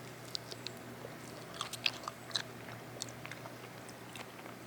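Close-up chewing: a person's mouth making irregular soft wet clicks and small crunches.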